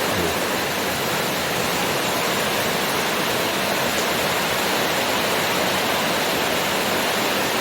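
Heavy rain pouring down in strong wind: a steady, even hiss with no letup.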